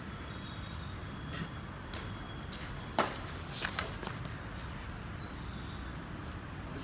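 Sharp knocks of a badminton rally, racket strikes on the shuttlecock and players' footfalls. There are about six in all, the loudest about three seconds in, over a steady low background noise.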